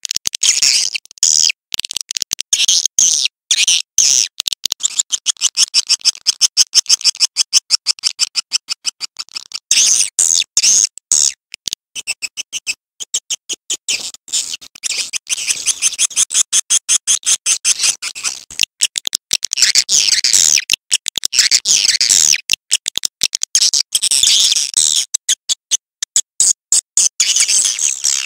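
Swiftlet calls, as played on a swiftlet-house lure recording: rapid high-pitched chittering twitters and clicks, pulsing many times a second with only brief gaps.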